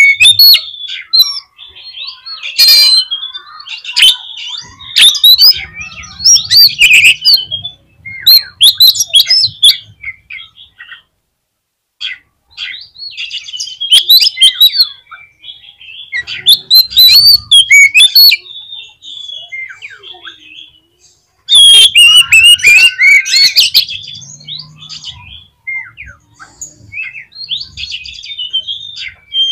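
Oriental magpie-robin (kacer) singing loudly in bursts of rapid, varied whistled phrases with short pauses between them, the busiest stretch near the end.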